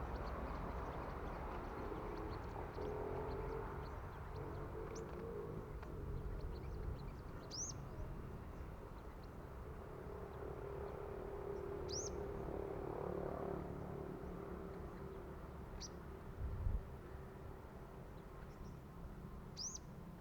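A small bird giving short, high single chirps, four of them several seconds apart, over a steady low background hum. A brief low thump about three-quarters of the way through.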